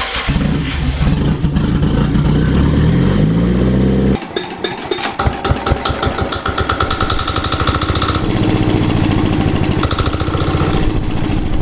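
Engines running after repair: one engine running with its pitch rising, then, about four seconds in, a different engine firing with separate beats that quickly speed up into a fast, even idle.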